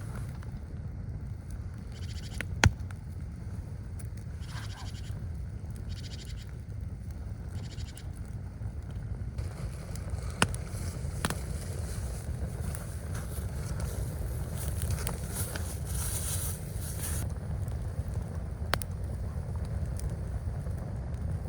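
Steady low rumble of blizzard wind, with a few sharp cracks or snaps and stretches of higher rustling hiss.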